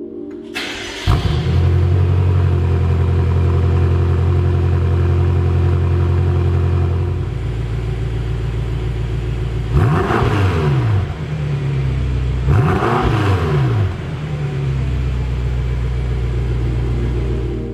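BMW F10 M5's 4.4-litre twin-turbo V8 started cold, heard at the exhaust: a brief crank, then it catches with a flare and settles into a fast idle that drops a little around seven seconds. Two quick throttle blips, around ten and thirteen seconds in, rise and fall before it drops back to idle.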